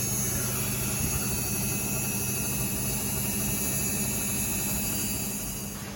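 Front-loading washing machine running mid-cycle: a steady motor hum with a high whine, which cuts off just before the end.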